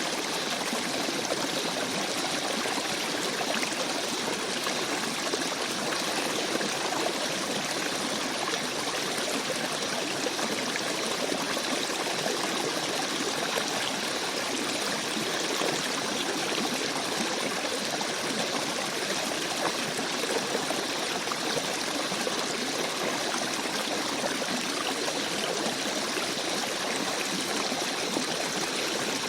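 Small stream babbling and trickling over rocks, a steady rush of flowing water.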